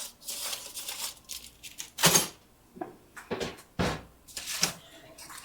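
Oven door and a baking tray of garlic bread being handled: a run of clunks and scrapes, the loudest about two seconds in.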